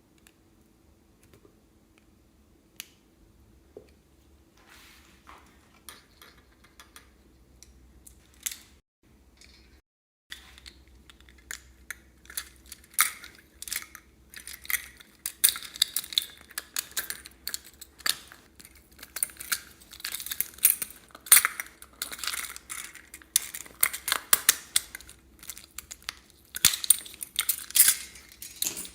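Slime being worked by hand: a few faint clicks at first, then, from about a third of the way in, dense crackling and popping that grows louder toward the end.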